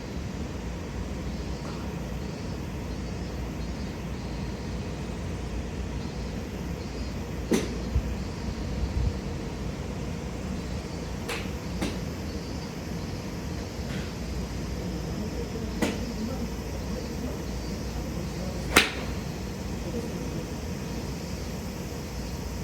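Golf balls being struck with clubs at a driving range: about six sharp cracks at irregular intervals, the loudest near the end, over a steady background hum.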